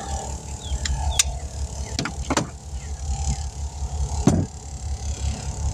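A motor running steadily with a low, rapid chugging, under a few sharp clanks and knocks, the loudest about four seconds in.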